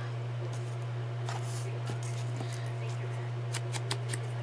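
Paper pieces being handled on a craft table, giving short, scattered clicks and scrapes. A steady low electrical hum runs under them.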